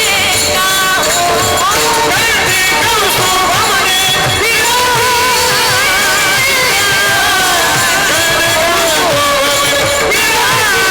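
A woman singing a Marathi devotional kirtan melody (a panchapadi) in a high voice with wavering, ornamented pitch, over continuous instrumental accompaniment.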